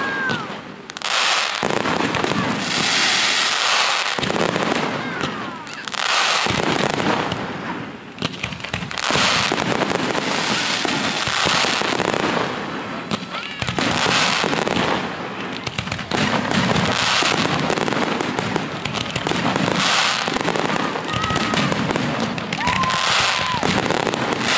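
Fireworks display going off overhead: dense, near-continuous bangs and crackling, with a few whistles from the shells.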